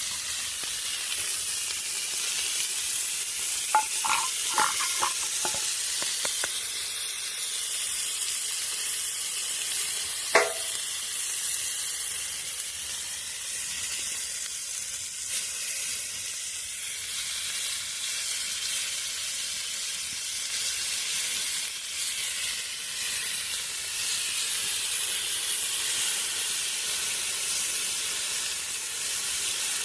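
Food sizzling steadily as it cooks on hot metal. A few light clinks come about four seconds in, and a sharper ringing clink about ten seconds in.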